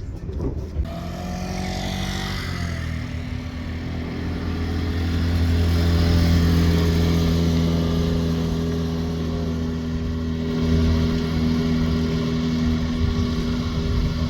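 A motor vehicle's engine running at a steady speed, getting louder over the first few seconds and then holding.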